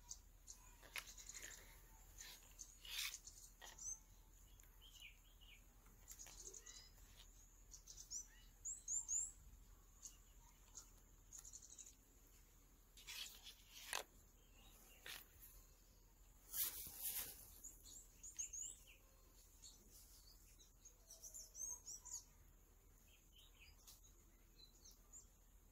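Faint birds chirping in short, high twittering phrases, with a few brief knocks and rustles of handling scattered through.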